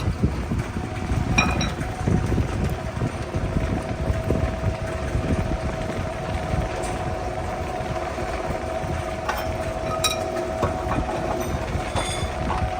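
A machine running with a steady hum over a low rumble. A few short, ringing metal clinks come about a second and a half in, and again around ten and twelve seconds.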